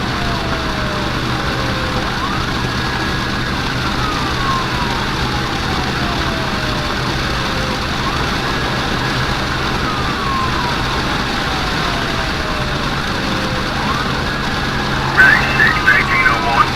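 Emergency-vehicle siren on a slow wail: each cycle rises quickly, holds briefly at the top, then falls slowly, repeating about every six seconds, over the steady low hum of the vehicle running along the road. Near the end a burst of sharp, uneven clicking noises cuts in, louder than the siren.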